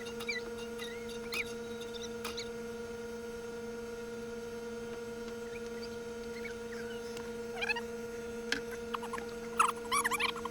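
Steady hum made of two tones an octave apart, with scattered short chirps and a few clicks, busiest near the end.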